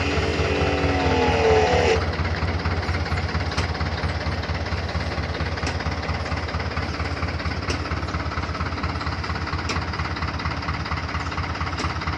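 Engine running steadily at a constant speed. A rising whine sounds over it in the first two seconds, and a faint tick comes about every two seconds.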